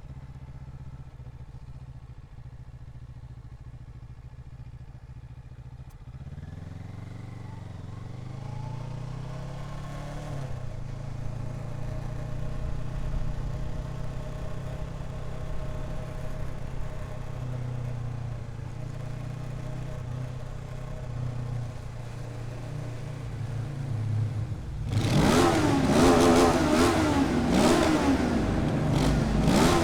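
Motorcycle engine idling, then pulling away with the revs climbing through the gears and settling into a steady run. About 25 seconds in it gets much louder as the throttle is blipped again and again, the revs rising and falling: rev bombing inside a road tunnel.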